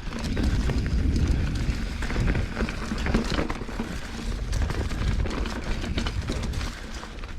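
Mountain bike riding over a rough trail: a steady rumble of wind on the microphone, with tyres crunching and the bike rattling and clicking over rocks and roots.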